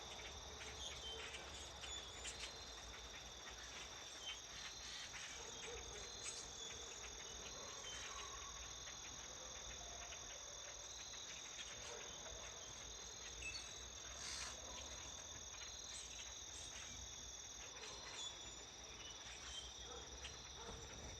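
A steady chorus of insects, a continuous high-pitched trill in two pitches, with faint short chirps scattered through it.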